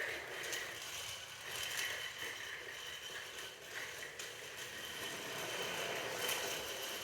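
Battery-powered toy train running on plastic track: a steady small-motor whir with light clicks and rattles.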